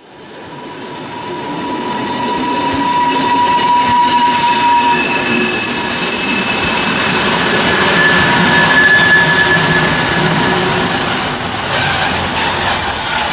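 Flåm Railway train rolling along the track with its wheels squealing in several long, high, steady tones over the running noise. The sound fades in over the first few seconds.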